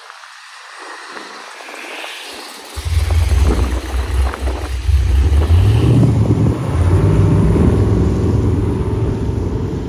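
Car engine running loud and close, cutting in abruptly about three seconds in after a steady hiss and rising in pitch a couple of seconds later before holding steady.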